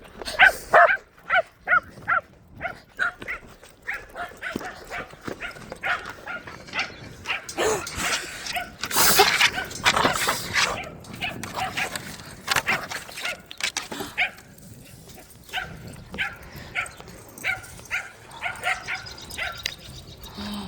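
Puppies barking and yipping in short, high calls over and over, with a louder, rougher stretch about nine to eleven seconds in.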